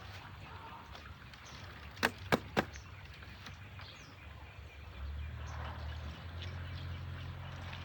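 Three sharp knocks in quick succession about two seconds in, over a faint outdoor background. About five seconds in, a low steady drone starts.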